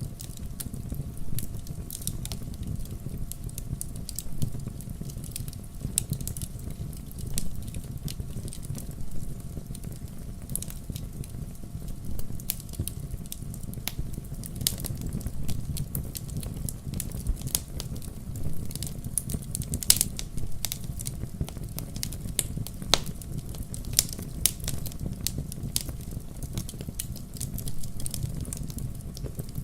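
Log fire burning, crackling with irregular sharp pops and snaps over a steady low rumble of the flames; one snap about two-thirds of the way through stands out as the loudest.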